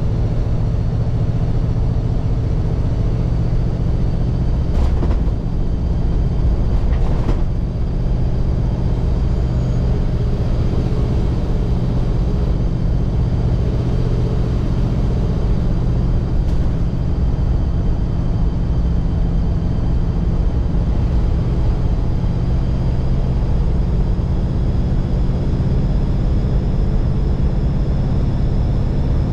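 1948 Mercury woodie's 239-cubic-inch flathead V8 running steadily on the road. Two short knocks come about five and seven seconds in, with a fainter one a little past halfway.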